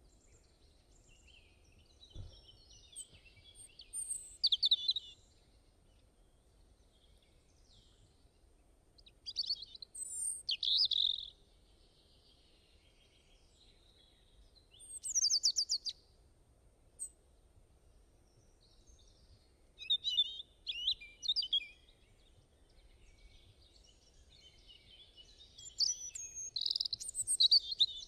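Songbird song in short twittering phrases: five bursts of high chirps and trills a few seconds apart, the loudest near the end.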